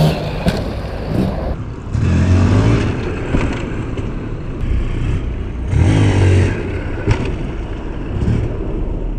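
GasGas EC 300 two-stroke enduro motorcycle ridden past, its engine revving up in about three bursts, with a few sharp knocks in between.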